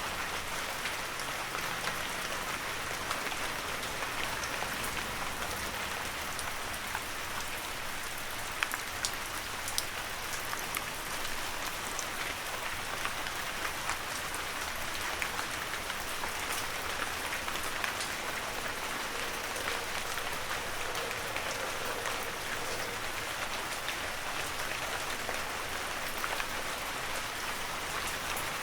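Heavy rain falling steadily, a dense hiss of rain with scattered sharper drips and splats, a few louder ones about a third of the way in.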